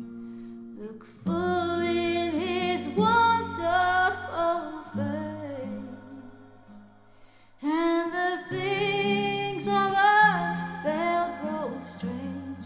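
A woman singing a slow worship song over sustained instrumental chords. There are two sung phrases with a stretch of held chords between them.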